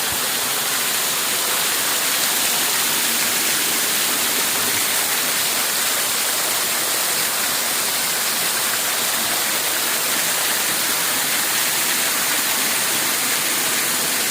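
Waterfall in full, strong flow: loud, steady noise of falling water with no breaks.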